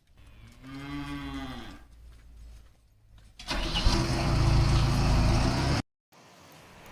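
A Holstein heifer moos once, a single call that rises and falls. Then a loud engine runs steadily for about two seconds and cuts off suddenly.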